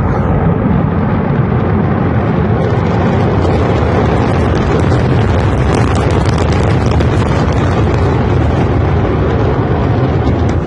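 Rocket engine exhaust: a loud, steady rumble with a crackle that sets in after a couple of seconds. It cuts off abruptly at the end.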